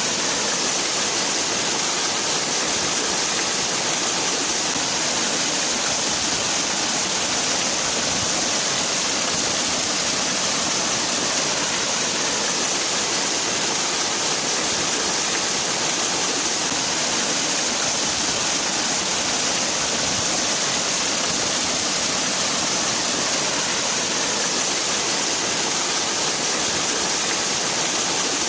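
Waterfall: water falling and splashing in a steady rushing hiss, strongest in the high register, with no change throughout.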